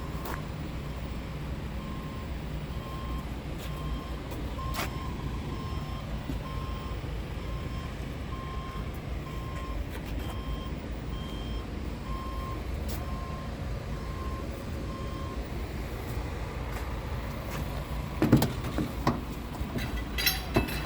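Scania R tractor unit's diesel engine idling steadily, with a repeated electronic beeping over it that stops about three-quarters of the way through. A few clicks, then louder knocks near the end.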